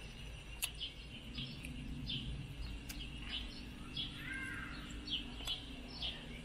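A small bird chirping over and over, short high falling chirps about every half second. A couple of sharp clicks of cutlery against a plate come through, over a faint steady low hum.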